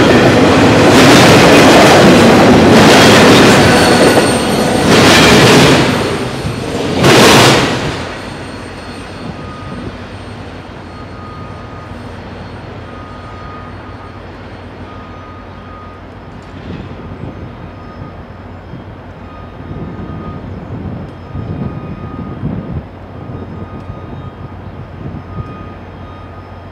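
The last cars of a BNSF double-stack intermodal freight train rolling past close by: a loud rumble of steel wheels on rail, swelling as each car goes by, that cuts off about seven seconds in as the train clears. After that comes a much quieter low rumble with a faint short beep repeating about once a second.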